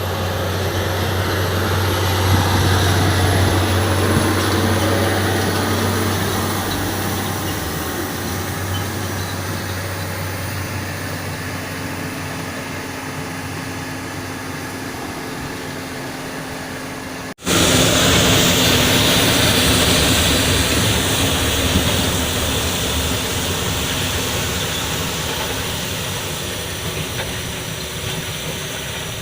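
Heavy truck running, with a steady low engine hum under a broad rushing noise; the hum fades over the first half. About 17 seconds in the sound cuts off abruptly and resumes louder and brighter.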